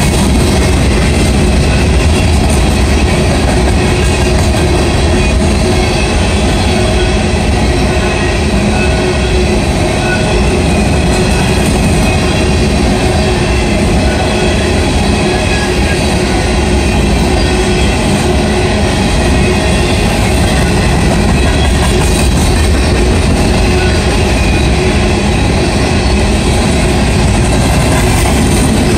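Empty steel coal hopper cars rolling past: a loud, steady rumble and rattle of wheels on the rails, with faint steady ringing tones over it.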